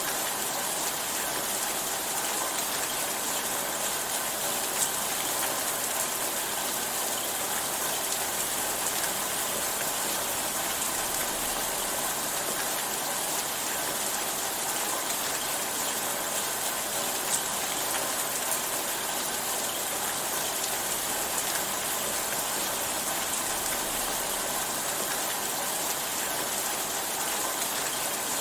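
Steady rainfall: an even, continuous hiss of rain with a few louder single drops ticking out now and then.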